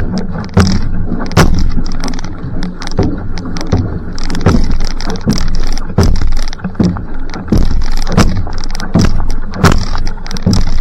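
Outrigger canoe paddle strokes during a sprint: the blade catches and splashes in the water in an even rhythm of about one stroke every three-quarters of a second, over a steady rushing noise.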